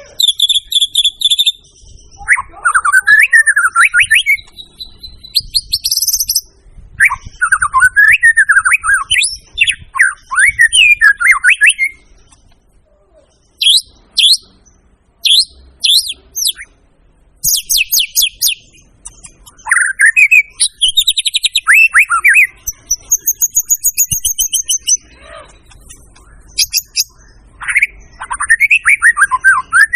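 White-rumped shama (murai batu) singing in full, continuous song: loud phrases of varied whistles, fast trills and high chips, each a few seconds long with short pauses between.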